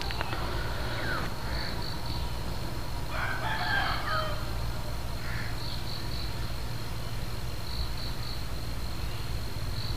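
A bird calling in the background, strongest about three to four seconds in, with fainter short calls about a second in, over a steady low hum.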